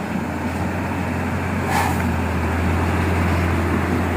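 Heavy diesel truck engine running steadily with a low hum, slowly growing louder. About two seconds in there is a brief hiss.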